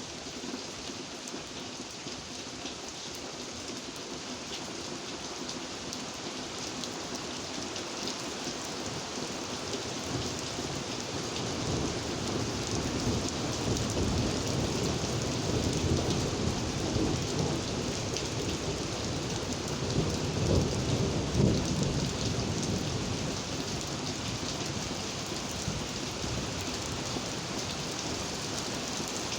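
Steady rain falling, an even hiss, with a low rumble that builds about a third of the way in, swells twice and fades again before the end.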